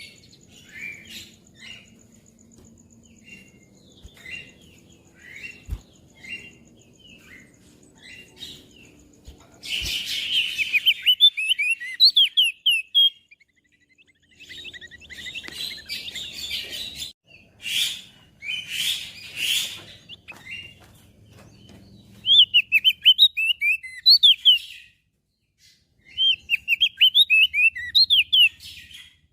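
Crested white-eye singing: quick runs of high chirps and rapid trills in several bursts separated by short pauses. Hissy noise breaks in for about a second near the middle and again for several seconds a little later. A faint thin high tone runs underneath early on.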